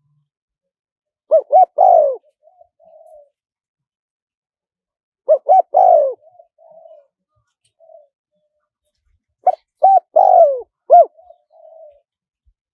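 Spotted dove singing: three loud phrases of cooing about four seconds apart, each a quick run of coos followed by softer, quieter trailing notes.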